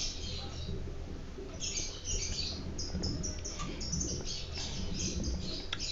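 Small birds chirping in short, high, repeated notes, thickest in the second half. Faint sipping and swallowing from a glass of drink near the start.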